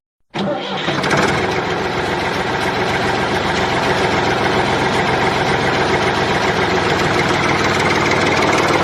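An engine starts running about half a second in, after a brief silence, and then runs steadily at idle.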